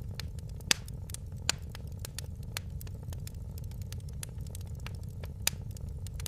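Fire crackling in a fireplace: frequent small snaps and pops over a steady low rumble, with louder pops just under a second in, about a second and a half in, and near the end.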